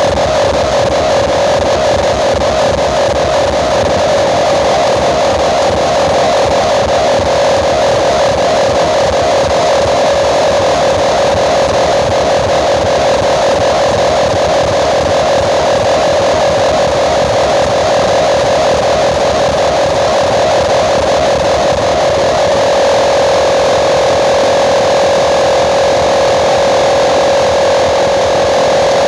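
Loud, harsh sound from big outdoor-cinema loudspeaker rigs playing against each other: a dense steady noise with a strong mid-pitched hum running through it, which settles into a steadier single tone about 22 seconds in.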